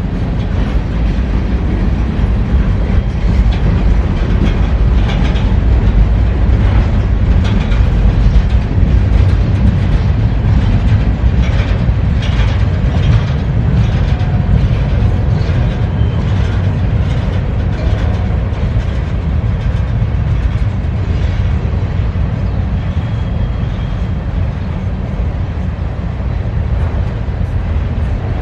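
CSX freight train cars rolling past: a steady, loud low rumble of wheels on rail with rapid clicking clatter.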